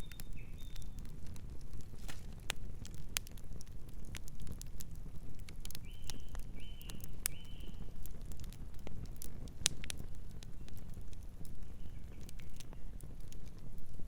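Campfire crackling, with many sharp irregular pops and snaps of burning wood over a low steady rumble. A few short high chirps come through: three in a row come about six seconds in.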